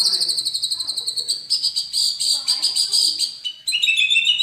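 A songbird singing a fast, buzzy, high-pitched trill for about three and a half seconds, then a few quick whistled notes stepping down in pitch near the end.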